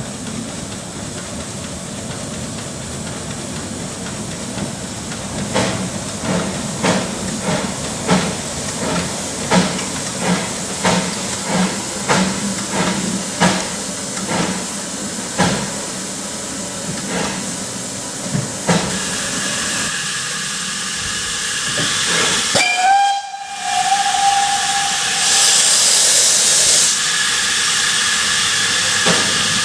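Vale of Rheidol narrow gauge 2-6-2T steam locomotive working, its exhaust chuffing in an even beat for a dozen or so seconds. Then it settles into a steady hiss of steam, with a short steam whistle and a louder rush of escaping steam near the end.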